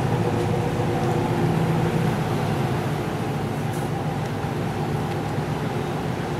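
Boat engine running steadily at cruising speed: a continuous low drone with steady tones, over a hiss of wind and water.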